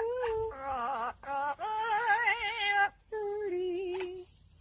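Parrot vocalizing in long, wavering, sung-sounding notes, several phrases in a row with short breaks between them.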